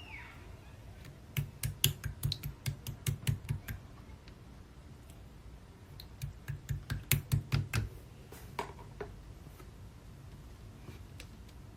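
Marbled slime being pressed and poked by hand, making crisp clicking pops in two quick runs of about five a second, each pop with a soft low thud.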